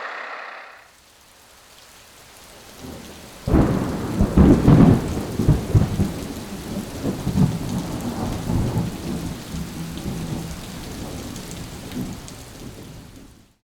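Steady rain with a loud clap of thunder about three and a half seconds in, rumbling and slowly dying away over the next several seconds. The sound cuts off abruptly near the end.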